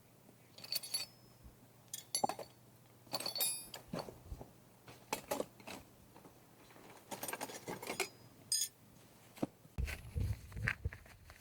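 Small metal objects clinking and rattling as they are handled, in short clusters about once a second, with a dull thump or two near the end.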